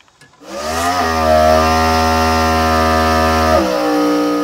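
Classic muscle car's engine revved hard and held at high revs during a burnout, the rear tyre spinning. The revs climb quickly about half a second in, hold steady, then drop a step about three and a half seconds in and hold again.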